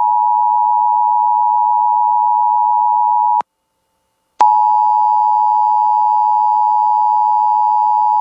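Emergency Alert System attention signal: a loud, steady two-tone alert tone, broken by about a second of silence a little over three seconds in, then resuming. It announces the tornado warning that follows.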